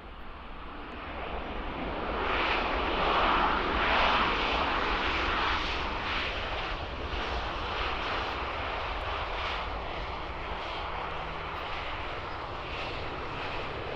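Boeing 737-800 landing, the noise of its twin CFM56 jet engines swelling from about a second in, loudest at around four seconds, then holding steady as the jet rolls out.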